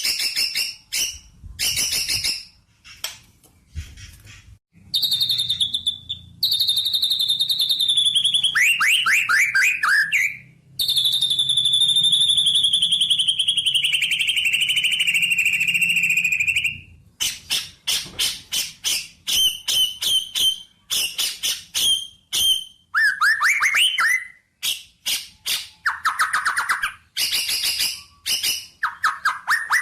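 A songbird singing: quick runs of sharp, high chirps, with a long, slowly falling trilled note in the middle.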